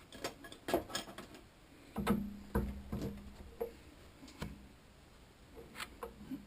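Metal tools and parts being handled on a workbench: irregular clicks and knocks, loudest about two seconds in, with a low hum under them for a couple of seconds.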